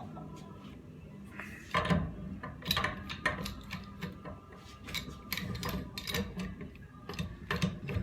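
Hand tools working on metal pump parts during disassembly: a run of irregular clicks and knocks that starts about two seconds in.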